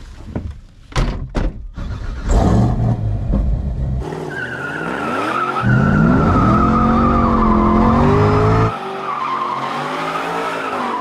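A 755 hp supercharged LT5 V8 in a 1979 Camaro Z28 is revved hard, rising and falling, with the tires squealing over it. Two sharp knocks come about a second in. The loudest stretch cuts off abruptly near the end.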